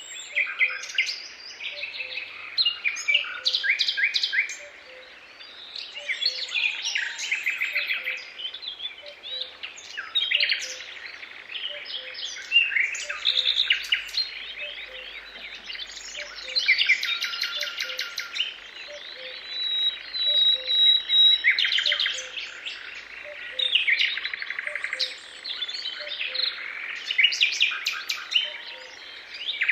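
Songbirds singing, with several overlapping chirping phrases and rapid trills following one another. A faint, low, short note repeats evenly about once a second underneath.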